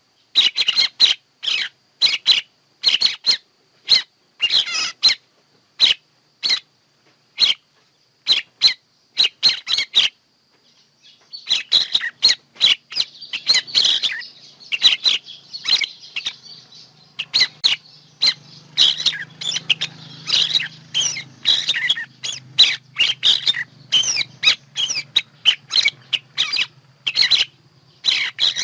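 Songbird calls played as a trapping lure: short sharp chirps repeated about once or twice a second, then after a brief pause a denser, faster run of overlapping chirps and twitters.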